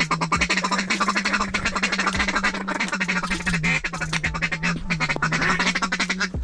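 Mallard duck call blown in a rapid feeding chuckle: a fast, continuous run of short clicking notes, with a steady low tone underneath that cuts off at the end.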